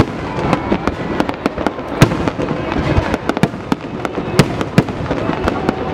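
Aerial fireworks display: a continuous barrage of bangs and crackling bursts. The loudest bangs come at the start and about two seconds in.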